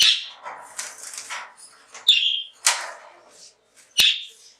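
Caged European goldfinches calling in short, rapid chirps and twitters, with three sharp clicks: at the start, about two seconds in and about four seconds in.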